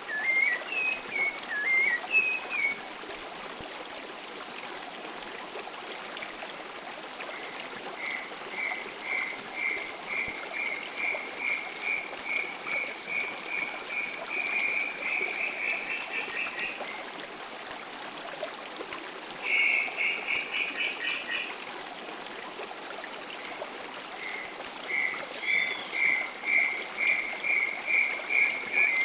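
Field recording of forest birds: a bird repeats a short clear note about twice a second in long runs, with a quicker, denser burst of notes about two-thirds of the way in. A steady hiss of ambience lies underneath.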